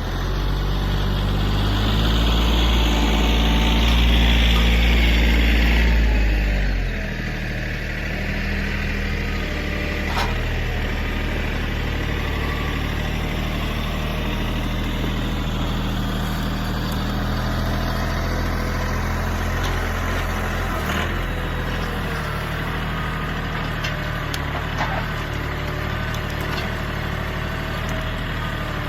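Kioti CK3510se compact tractor's diesel engine working hard for the first six or seven seconds, louder with a high whine that falls away, then settling into a steady run. A few sharp knocks come through over the engine.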